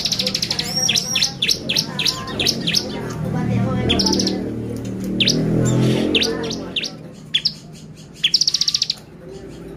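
Bar-winged prinia (ciblek) singing: high-pitched rapid buzzy trills mixed with quick, sharp downslurred chirps, repeated in bursts. A low background rumble swells in the middle.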